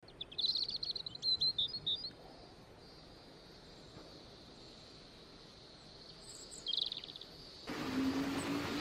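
Birds chirping in quick runs of high calls during the first two seconds and again briefly just before the end, over a faint outdoor hiss. Near the end the sound cuts to a louder steady noise with a low hum.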